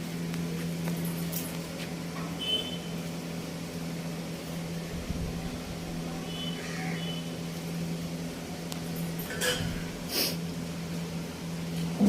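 A steady low mechanical hum, with a few short high chirps and two sharp clicks near the end.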